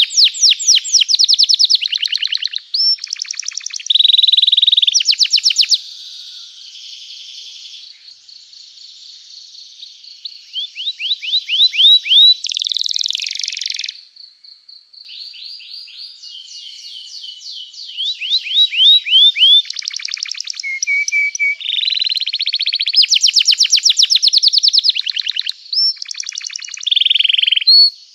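Domestic canary singing a long, continuous song of fast trills and chirped phrases, each phrase a run of quickly repeated notes. Loud trilled passages alternate with softer twittering, with a brief pause about halfway through.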